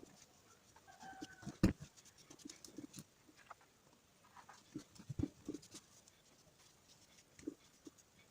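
Scattered light clicks and knocks of metal parts and tools being handled, with a sharp knock about a second and a half in and another about five seconds in. A short high call or squeak sounds just before the first knock.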